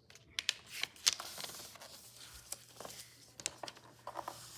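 A sheet of paper being folded and creased by hand: irregular crackling rustles and short sharp snaps of paper, the loudest about a second in.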